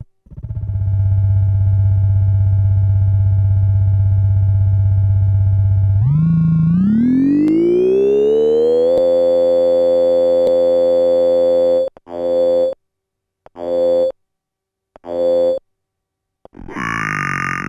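Synthesis Technology E950 circuit-bent Eurorack oscillator sounding a steady low, buzzy drone. About six seconds in, its pitch and brightness glide smoothly upward and then hold. It is then cut into three short notes, and near the end a denser, wavering tone begins.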